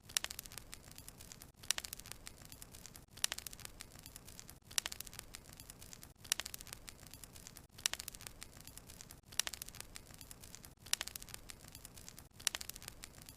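Wood fire crackling in a fireplace, with sharp pops over a low hiss. The crackles come in clusters at very even spacing, about every second and a half, each after a brief dropout, as from a short recording looped.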